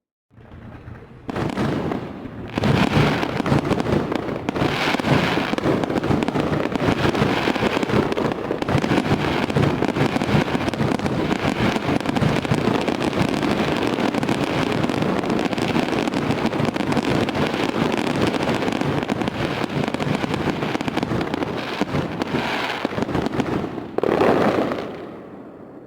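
Fireworks: a dense, continuous barrage of bangs and crackling that builds up over the first few seconds and holds steady. A louder burst comes near the end before it fades out.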